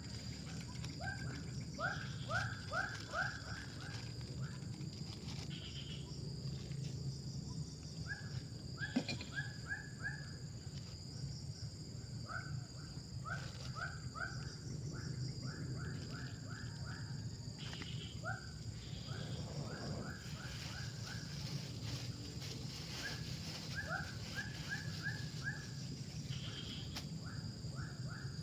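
Wild animal calls: short bursts of five or six quick rising notes, repeated every couple of seconds, over a steady high-pitched insect drone and a low constant rumble.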